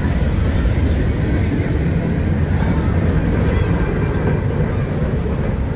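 A train passing on the line, a steady loud low rumble of wheels on rails.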